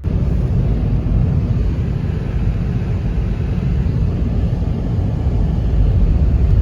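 Strong windstorm gusts buffeting the microphone: a loud, steady low rumble that starts suddenly at a cut.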